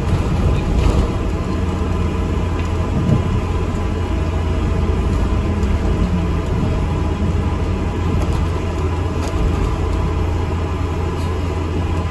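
Steady low engine hum and rumble inside an ADL Enviro 400 MMC double-decker bus in service.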